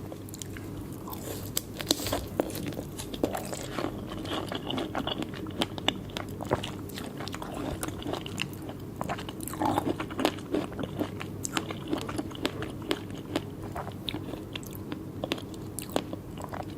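Close-miked biting and chewing of a fresh strawberry, with many sharp mouth clicks and smacks spread irregularly throughout.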